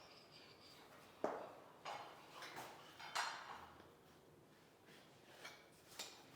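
Faint, scattered knocks and clicks of flooring work, vinyl click planks and tools being handled and set down, with a few sharper taps about a second in, near the middle and near the end.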